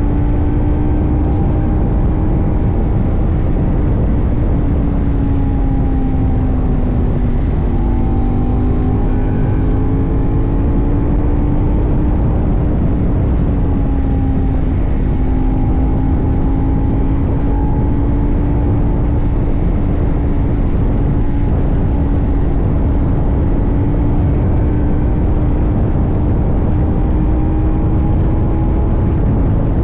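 CFMoto 800NK parallel-twin engine running at a steady cruising pace under heavy wind rumble, its note dipping slightly twice as the throttle eases and climbing back.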